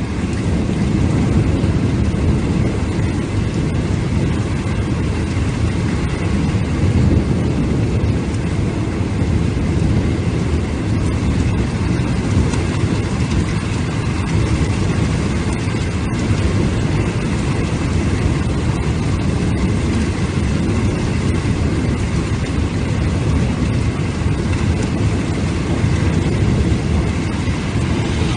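Heavy downpour in a thunderstorm: a steady, deep rush of rain and water, with a few faint ticks here and there.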